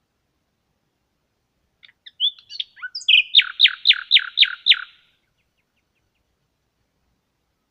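A songbird singing one song phrase about two seconds in: a few short introductory notes, then a run of about seven loud, evenly spaced, downward-sweeping notes that stops about five seconds in.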